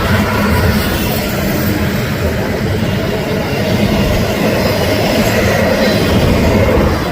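Union Pacific intermodal freight train rolling past: a steady, loud rumble of steel wheels on the rails.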